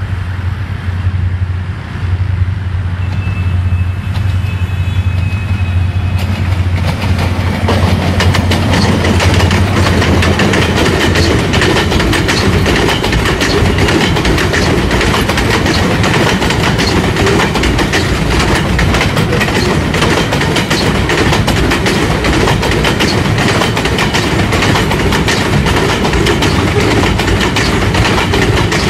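Container freight train passing: the NLC GMU-30SR diesel locomotive approaches with a low, steady engine drone that fades about eleven seconds in as it goes by. The container flat wagons then roll past close by, with a steady clickety-clack of wheels over the rail joints.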